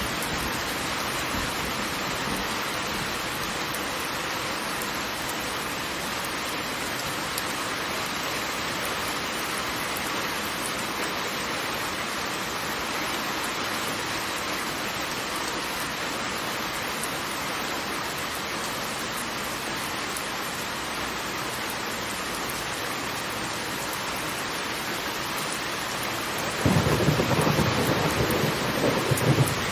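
Waterfall, a steady rushing roar of falling water with a rain-like hiss. Near the end a louder, deeper rumble joins for about three seconds, then cuts off suddenly.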